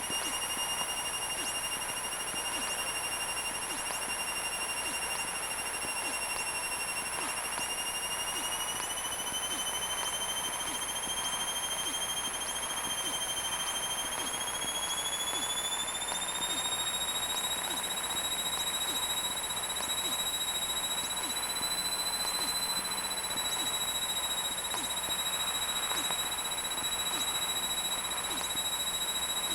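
Steady in-flight cabin noise of a Cessna 172's engine and propeller, with a high whine that climbs slowly in pitch partway through and then holds steady.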